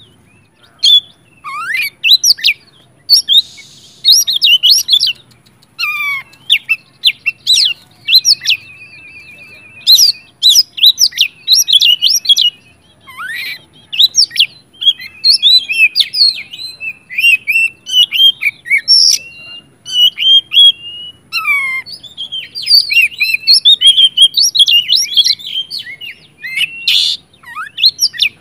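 Oriental magpie-robin (kacer) in full, insistent song: a rapid, nearly unbroken run of varied whistled phrases and sweeping notes, with several drawn-out rattling trills.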